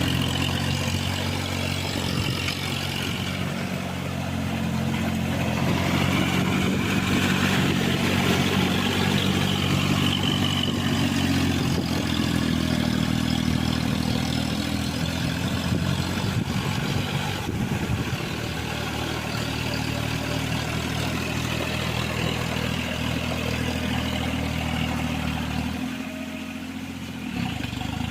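John Deere mini tractor engine running steadily under load while working a rotavator, with some clatter; the engine note dips briefly near the end, then picks up again.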